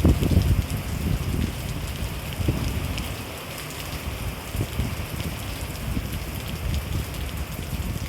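Steady rain falling, a constant hiss of many small drop ticks. An irregular low rumble comes and goes underneath, loudest at the very start.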